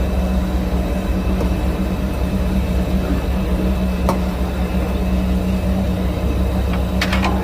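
Fishing boat's engine running steadily with a deep drone; a higher hum on top drops out near the end, and a few light knocks sound over it.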